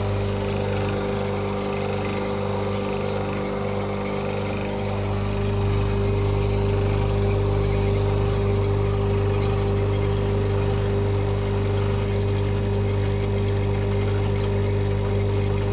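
A machine running with a steady hum, its pitch and level holding constant; the low end grows a little fuller about five seconds in.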